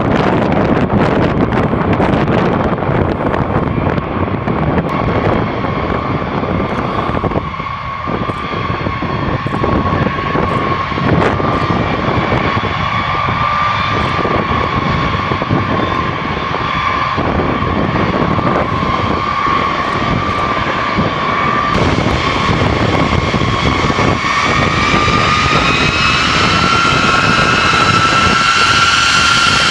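Jet aircraft engines running: a steady high whine over a dense rushing noise. About three quarters of the way through, the whine rises a little in pitch and grows stronger.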